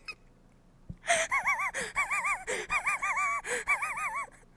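A person squealing in excitement: short, very high-pitched warbling squeals with sharp gasping breaths between them, starting about a second in.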